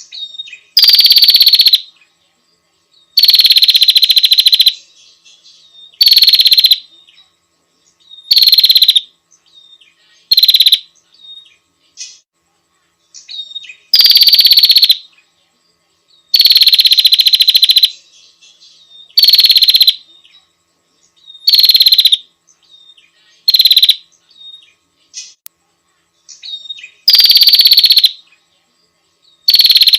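A female prinia (prenjak) gives a female's call to a male: about a dozen loud, rapid, buzzy trills, each around a second long, repeated every couple of seconds. Fainter short chirps fill the gaps between them.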